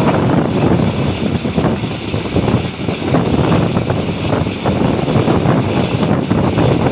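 A passenger train running past at speed: a loud, steady rushing roar of wheels and cars on the rails, with dense clatter.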